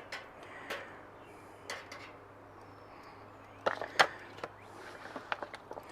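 Scattered sharp clicks and taps as chicken legs are set down on a Weber kettle grill's metal grate, the loudest a quick cluster about four seconds in and a run of lighter ticks near the end, over a faint steady hum.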